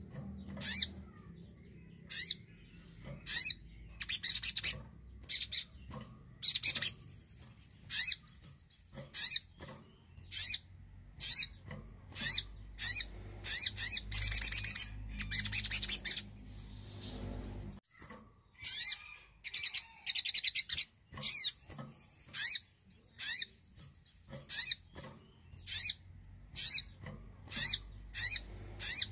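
Crimson sunbird (sogon) singing: short, high-pitched chirping phrases repeated about once a second, broken twice by longer rapid trills.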